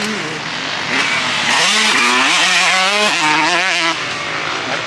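Dirt bike engines revving up and down, rising in pitch about a second and a half in and wavering through the middle, then easing off near the end.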